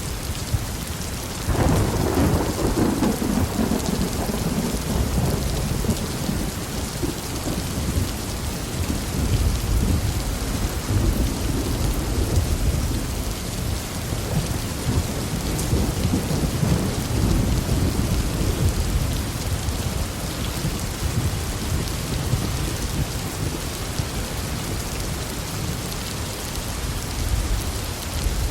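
Heavy rain falling steadily, with a thunder clap about a second and a half in and long rolling rumbles of thunder after it.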